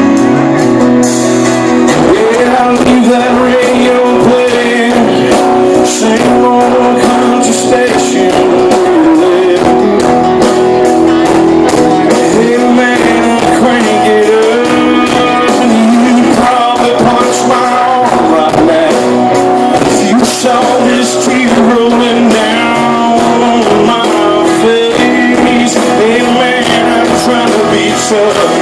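Live country-rock band playing loud, with guitars, a steady drum beat and a bending lead melody line over them.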